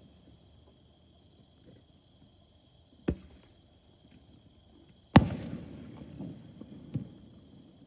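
Aerial fireworks exploding: a sharp bang about three seconds in, a louder bang two seconds later with a long rumbling tail, and a smaller bang near the end. Crickets trill steadily underneath.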